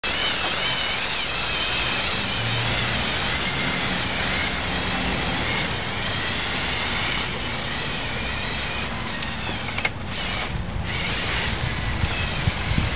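Electric motors and plastic gearing of a remote-controlled Lego Technic 6x6 truck whining as it drives, the pitch wavering up and down with the load.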